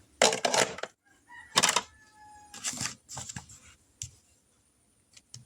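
Marker pens and ink pens clattering as they are handled and put away, in several short rattles and knocks.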